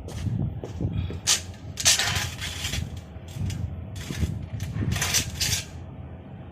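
Sliding window parts being handled during repair: irregular knocks and clatter, with three brief scraping, sliding sounds, the longest about two seconds in.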